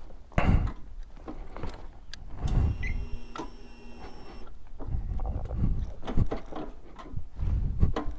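A string of sharp clicks and knocks, like gear being handled, with a steady buzzing tone that holds for about two seconds in the middle.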